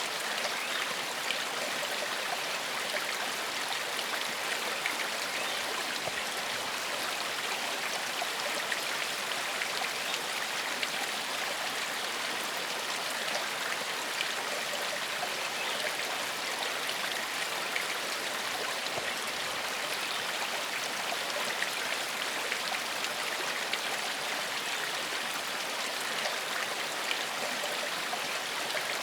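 Small forest stream flowing over stones, a steady splashing and babbling with many small droplet ticks.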